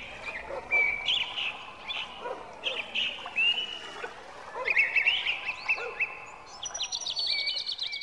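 Birds chirping and whistling, many short calls scattered throughout, over a light background hiss. A wailing siren has been filtered out of the recording by noise-removal processing, leaving only the birdsong.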